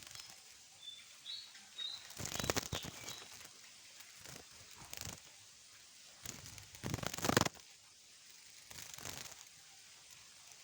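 Several short bursts of rustling, fluttering noise, the loudest about seven seconds in, with a few brief high bird chirps near the start.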